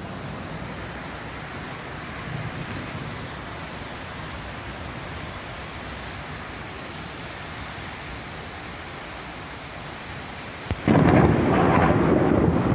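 Steady rain for most of the stretch, then a sudden loud thunderclap about eleven seconds in that keeps rumbling on.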